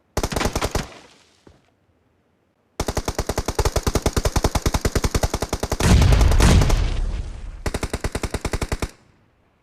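Video-game automatic gunfire: a short burst of rapid shots, then a gap of about two seconds, then about six seconds of steady fire at roughly ten rounds a second. A deep blast sounds in the middle of the long burst, about six seconds in.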